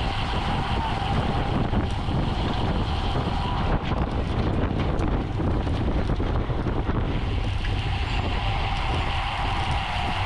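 Steady wind rushing and buffeting over the microphone at speed, with a faint steady whine in the background.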